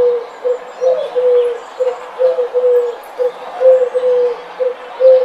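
Rock pigeons cooing: a continuous string of short, repeated coos at an even pitch.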